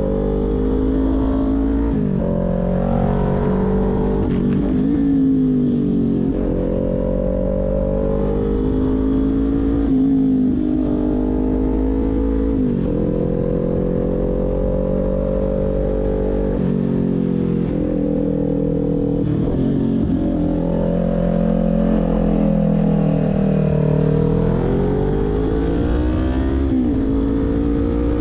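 Kawasaki Ninja 400 parallel-twin engine under hard riding. The revs climb and drop over and over as the rider accelerates and then rolls off or shifts.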